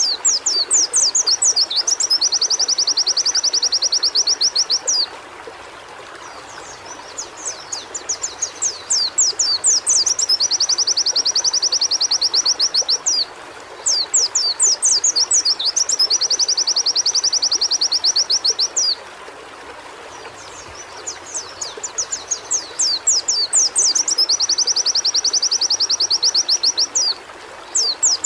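White-eye (pleci) singing four long, high-pitched phrases with short pauses between them. Each phrase opens with a run of quick down-slurred notes and breaks into a fast, even trill. A steady hiss like running water sits underneath.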